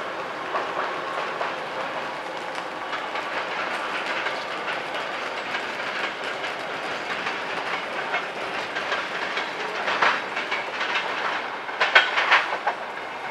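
Departing passenger express train running away down the line, its wheels clattering over rail joints and points, with a few sharper clacks near the end.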